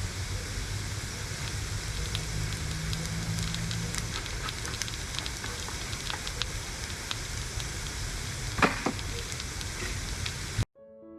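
Rain pattering on the tent, a steady hiss with scattered ticks, over the low hum of a running generator. Near the end it cuts off suddenly into piano music.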